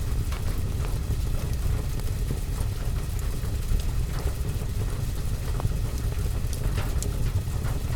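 Fireplace-and-rain ambience: a steady low rumble under an even hiss of rain, with scattered small ticks and pops from the fire crackling and drops striking the window.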